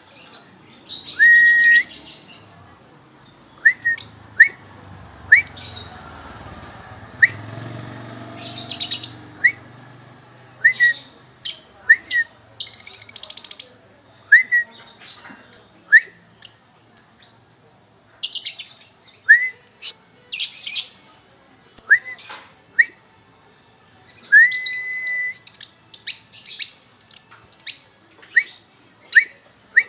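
Songbirds calling against each other in a song duel: repeated short notes that slide up and sometimes hold a clear whistle, mixed with sharp chips and fast buzzy trills.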